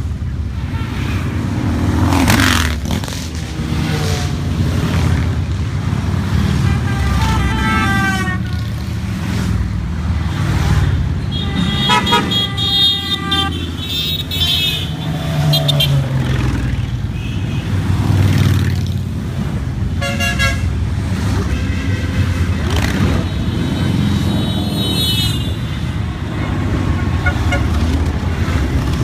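A stream of motorcycles riding past with a steady engine rumble, and horns honking several times, in a long run near the middle.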